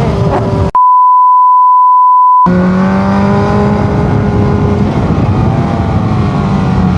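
A single steady high-pitched censor bleep, edited in, starts under a second in and lasts nearly two seconds, silencing all other sound. Around it a sportbike's engine is heard running with wind noise, its pitch easing slowly down after the bleep.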